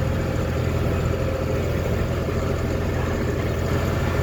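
Tractor engine running steadily while pulling a round baler through a hay field, with the baler's machinery going underneath.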